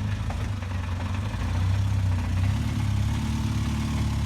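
Car engine idling low and steady as the car is eased into a parking space, the pitch rising a little about halfway through.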